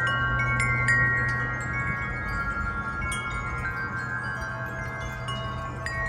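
Wind chimes ringing in gusty wind: strikes come thickest in the first second and again around three seconds in, and each pitched tone rings on and overlaps the others, over a steady low rumble.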